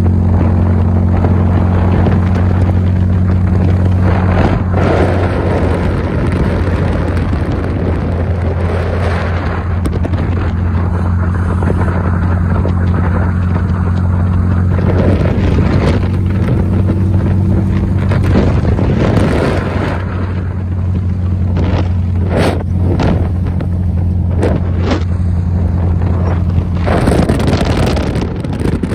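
VW Super Beetle's air-cooled flat-four engine running at a steady cruise, a low even hum, under heavy wind buffeting on the microphone from driving with no windshield. The wind hits harder at moments in the second half.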